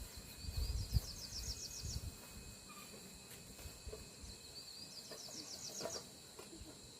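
A small bird singing the same phrase twice, each a short rising note followed by a quick run of about eight repeated high notes. The phrases come about four seconds apart, over a faint steady high insect-like drone, with low rumbling in the first second.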